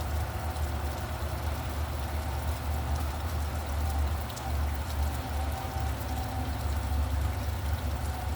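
Steady rain falling, with a low, steady rumble of traffic beneath it.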